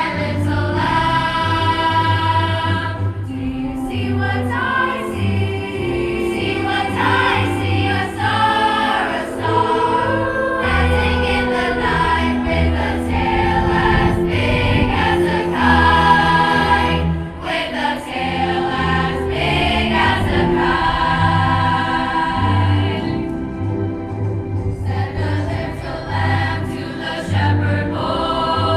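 A school choir singing with low sustained notes underneath, in steady continuous music.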